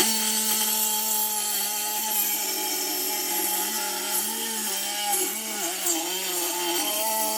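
Reciprocating saw (Sawzall) cutting through the exhaust pipe to take off the old tip. A steady motor whine with a rasping blade, its pitch wavering and dipping several times in the second half as the blade bites.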